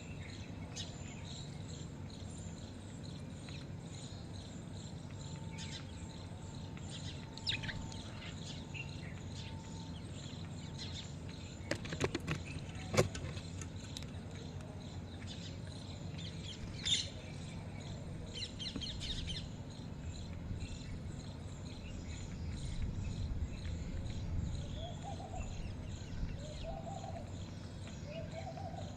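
Birds chirping now and then in short high calls over steady low background noise, with a few sharp clicks about twelve seconds in.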